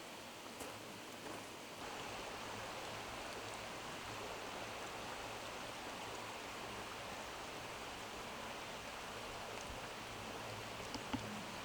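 Steady rushing murmur of a flowing stream, which grows a little louder about two seconds in. A single small click sounds near the end.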